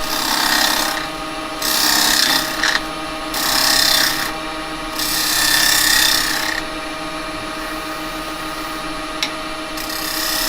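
Axminster wood lathe running with a steady hum while a small carbide hollowing cutter scrapes out the inside of a spinning cherry-wood piece in short passes: five cuts of a second or so each, the last after a pause of about three seconds. There is one sharp click near the end.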